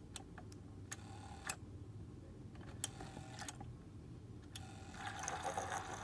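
Scattered clicks as the power button of a mini beauty blender washing machine is pressed and the machine fails to keep running; the button is jamming, so it only runs while held down. About five seconds in, a steady whirr of the small motor starts.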